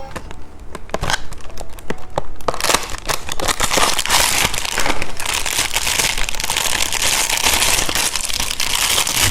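Plastic candy packaging crinkling as it is handled and opened. Scattered crackles come first, then steady crinkling from about two and a half seconds in.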